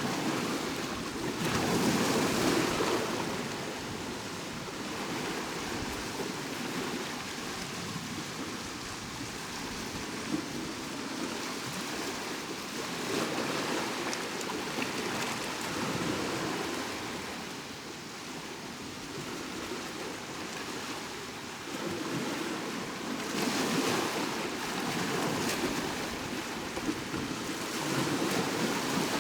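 Sea waves breaking and washing on the shore, a continuous rush that swells and eases, with the strongest surges about two seconds in and again near the end.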